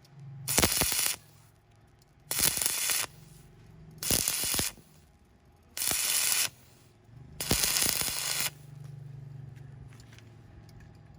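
Stick welding arc crackling in five short bursts, each under a second and about one and a half seconds apart, the arc struck and broken each time. A low hum from the welding machine runs underneath.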